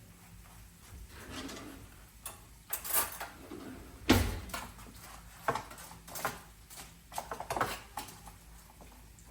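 Kitchen handling noises: a series of irregular knocks and light clatter from a utensil against a baking pan as asparagus is rolled in olive oil and garlic, with the loudest knock about four seconds in.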